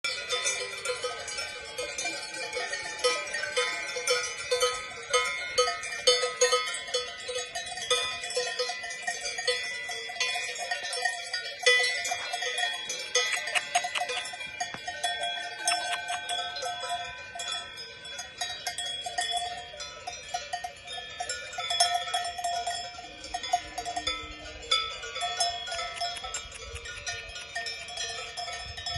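Many cowbells on a herd of cows clanking and ringing irregularly. Several bells of different pitches overlap the whole time.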